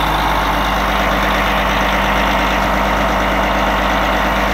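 Heavy machine's engine running steadily at an even pitch.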